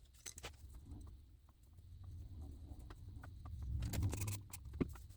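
Faint small clicks and rustles of hands handling a doll's hair, straw pieces and bobby pins while setting curls, with a low rumble and a sharper click near the end.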